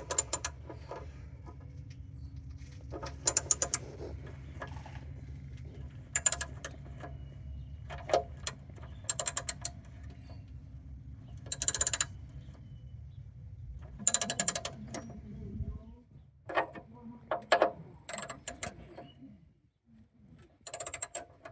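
Socket-wrench ratchet clicking in about ten short bursts of rapid clicks as the handle is swung back and forth, tightening an engine oil drain plug. A low steady hum in the background cuts off about three-quarters of the way through.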